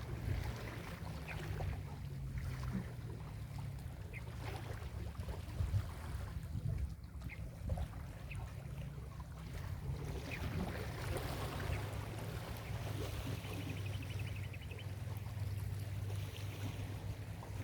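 Ocean waves washing onto a beach: a steady low rumble with a hiss of surf over it.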